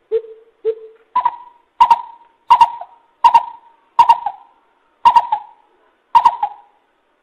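Coucal (bubut) calling: a series of deep hoots, two lower notes followed by seven higher, louder ones spaced about two-thirds of a second apart.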